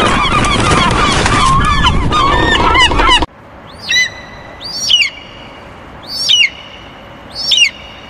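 A flock of flamingos honking, many calls overlapping. About three seconds in the sound cuts abruptly, and four separate gull calls follow over a much quieter background, roughly one every second or so.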